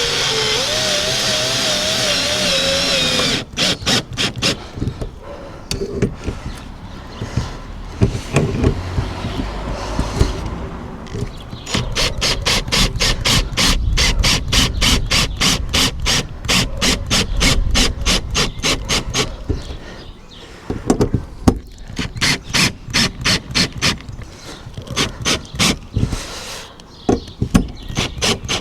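Power drill driving screws home into the solar panel mounting brackets on the van roof. A motor whine with a wavering pitch runs for about three seconds, then gives way to long runs of rapid, evenly spaced clicks with short pauses between them.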